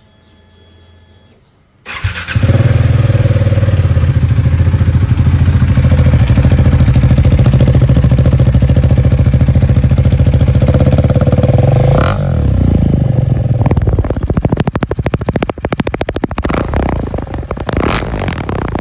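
Single-cylinder motorcycle engine starting up about two seconds in, then running with a steady, loud exhaust note. After about twelve seconds the note becomes uneven and choppy.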